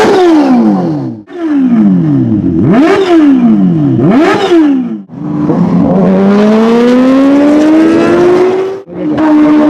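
Kawasaki superbike inline-four engine revving hard: three sharp throttle blips that shoot up in pitch and fall away. Then a long pull under acceleration with the pitch climbing steadily. It breaks off abruptly near the end and comes back at a high, steady pitch.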